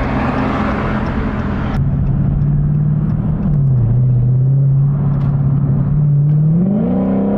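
Car engine running while driving, a steady drone that drops slightly in pitch partway through and then rises as the car accelerates near the end.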